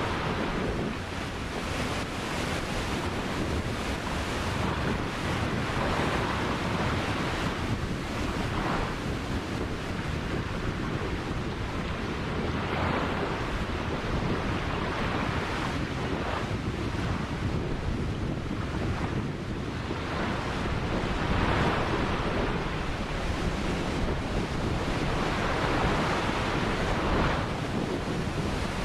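Ocean waves breaking and washing on the shore, a continuous surf rush that swells every few seconds, with low wind rumble on the microphone.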